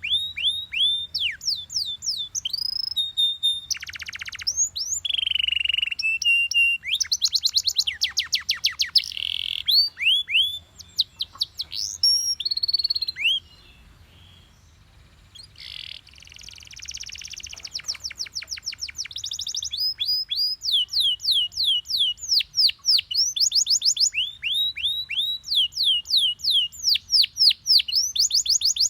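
Yellow Belgian canary singing in fast rolls of rapidly repeated downward-sweeping notes and trills. The song breaks off for about two seconds near the middle, then resumes.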